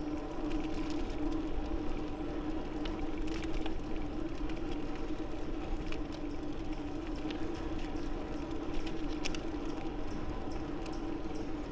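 Bicycle rolling along a paved path: a steady hum with scattered light clicks and rattles.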